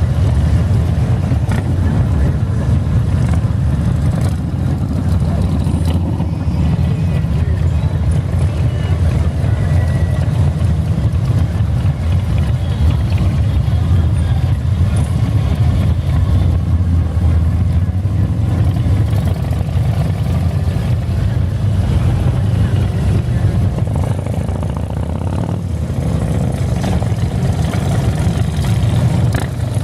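A large convoy of motorcycles riding past in a continuous stream: many engines running at once in a loud, steady, low rumble.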